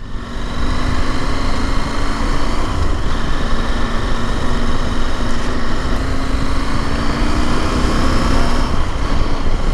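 Adventure motorcycle riding along, its engine note climbing slowly under a steady rush of wind on the microphone.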